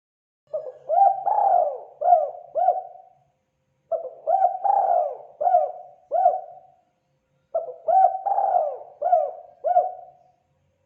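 Spotted dove (terkukur) calling: three phrases of about five coos each, a second or so of silence between them, each phrase ending on a longer trailing note.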